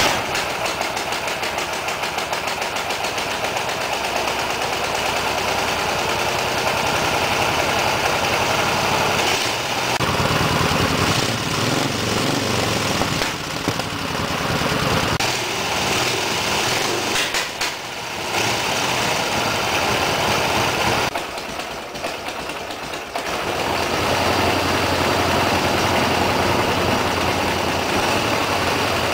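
An old Soviet boxer-twin motorcycle engine catches on a kick right at the start, then runs. Its revs rise and fall, with several dips, the longest about two-thirds of the way through.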